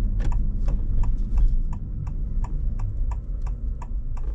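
Honda ZR-V's turn-signal indicator ticking steadily, about three ticks a second, over the low rumble of the car on the road.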